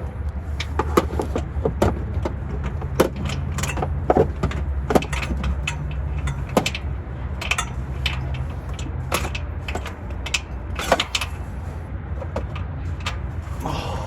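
Irregular metallic clicks and knocks of hand tools working on bolts during a transmission removal, over a steady low rumble.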